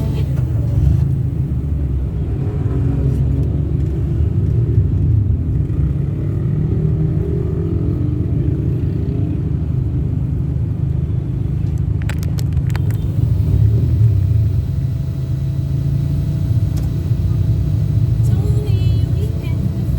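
Steady low road and engine rumble of a moving car, with a few sharp clicks about twelve seconds in.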